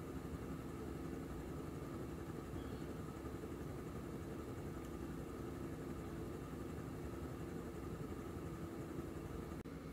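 1993 SMC Laguna Deluxe 90 cm ceiling fan running steadily, its motor giving an even hum, with a brief dropout near the end.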